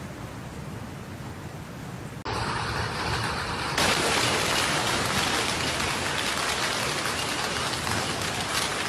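Heavy rain pouring, a steady hiss that steps abruptly louder and brighter about two seconds in and again about four seconds in, as the footage cuts between storm clips.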